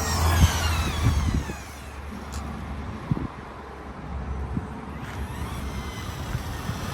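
A vehicle passing close by, its engine and tyre noise loudest in the first second and a half and falling in pitch as it goes past, then a lower, quieter engine rumble with a few knocks.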